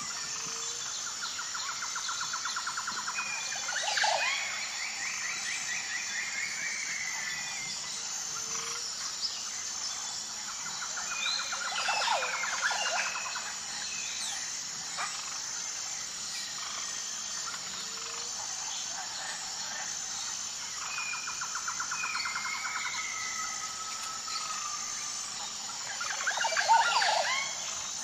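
Wild birds singing: trilled phrases and quick sharp calls, the same sequence recurring about every nine to ten seconds, over a steady, evenly pulsing high chirp in the background.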